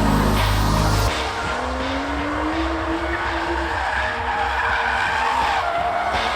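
A car drifting: tyres squealing and skidding over the engine revving, with the engine note rising in the middle.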